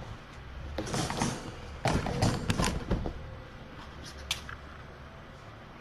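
Handling noises: a series of short knocks and rustles as objects are moved about, busiest between about one and three seconds in, with a single sharp click a little after four seconds in.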